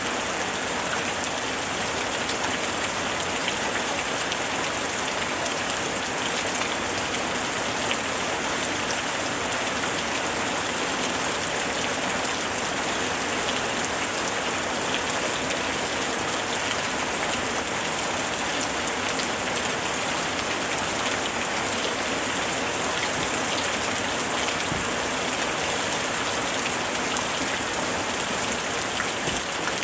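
Steady heavy rain falling on surfaces, a continuous hiss full of fine raindrop patter.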